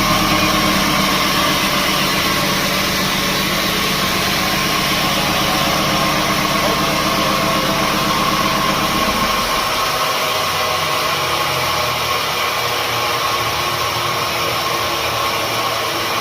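Sawmill machinery running steadily: a loud mechanical drone with a steady whining tone. Its deep low hum drops away about ten seconds in, while the whine and noise carry on.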